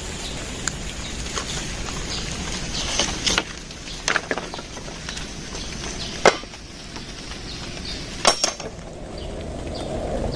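Wood being struck: a handful of sharp, irregularly spaced knocks, the loudest a little past the middle, over a steady hiss.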